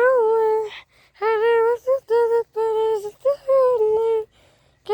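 A high voice humming a wordless tune: a string of about six held, fairly steady notes with short breaks between them.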